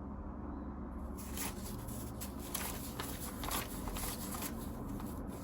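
Paper banknotes rustling and crinkling as cash is counted out by hand, in short soft flicks spaced irregularly, over a low steady hum.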